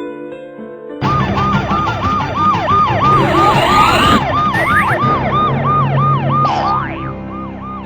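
A siren-like wail: a tone rising and falling rapidly, about two or three times a second, over busy noise and other sliding tones. A held musical chord plays in the first second.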